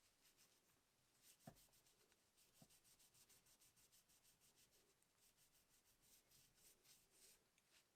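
Faint, rapid rubbing strokes, about five a second, like a brush or cloth scrubbing a hard surface. A light knock comes about a second and a half in, and another a second later.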